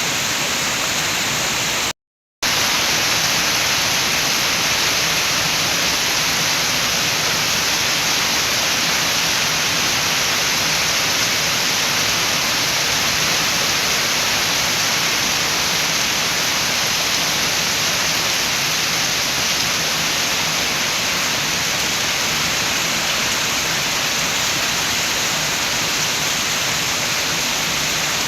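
Steady rain with wind, a dense, even hiss with no single drops standing out. It cuts out completely for a split second about two seconds in, then resumes unchanged.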